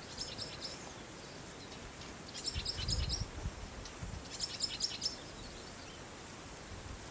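A small songbird singing three short phrases of rapid, high repeated notes, over a steady faint outdoor hiss. A low rumble comes in briefly about midway.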